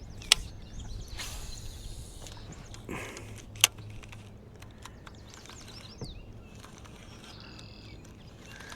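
Quiet outdoor ambience on open water with faint bird chirps and a light steady hiss, broken by two sharp clicks about three seconds apart.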